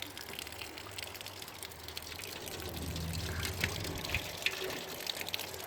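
Rainwater running and dripping just after a downpour has passed, with scattered drip taps and a low hum swelling briefly about three seconds in.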